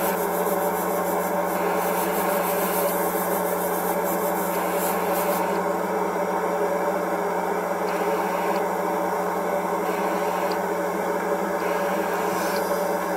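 Steady hiss and hum of airbrushing: thinned putty surfacer being sprayed lightly through an airbrush, with the equipment running evenly throughout.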